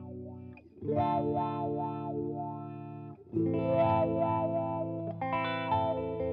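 Electric guitar chords played through a Hotone Soul Press wah/volume pedal, with a new chord struck about a second in and another a little past three seconds. Each chord is left to ring, and its upper tones waver as it sustains.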